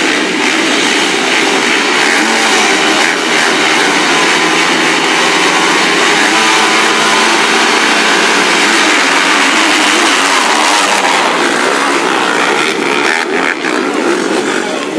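Motocross bike engines running hard at high revs, loud and continuous, with the pitch shifting as they rev and change gear.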